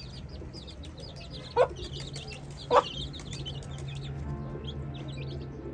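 Young chicks peeping constantly in quick high notes while a hen clucks loudly twice, about a second and a half and nearly three seconds in.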